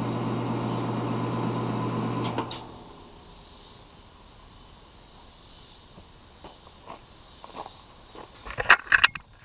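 2009 Carrier Comfort Series 5-ton heat pump outdoor unit, with its Copeland scroll compressor, humming steadily and then cutting off abruptly about two seconds in: the unit is short-cycling, and its fan motor is bad. Faint crickets follow, then a few sharp knocks near the end.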